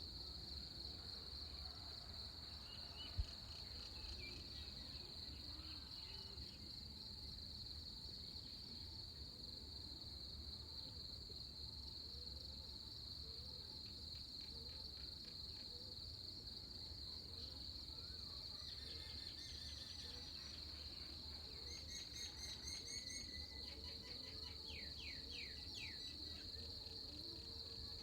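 A steady, high-pitched insect chorus, with a few short bird chirps in the second half and a single brief low thump about three seconds in.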